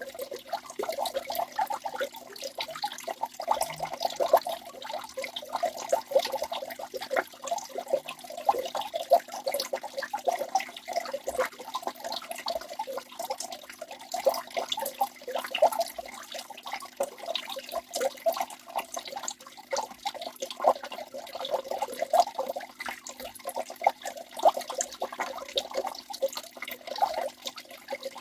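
Waterfall: water splashing and spattering continuously, a dense, constantly flickering rush without any pause.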